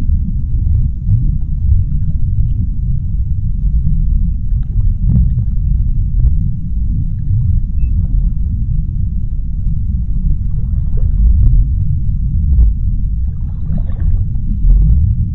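Underwater ambience: a deep, steady low rumble with faint scattered ticks, and a soft hiss rising near the end.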